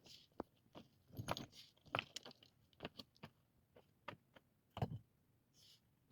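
A string of irregular small clicks and knocks, with heavier knocks about two seconds in and just before five seconds.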